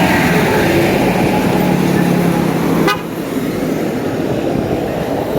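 A passing bus sounds its horn in one long steady note for about three seconds, which then cuts off abruptly. Steady engine and traffic noise carries on beneath and after it.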